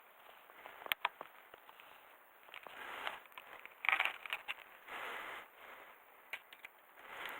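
Mountain bike coasting downhill on a gravel course: the tyres crunch over stones, with sharp rattling clicks and several swells of noise about a second long as the brakes are dragged into corners.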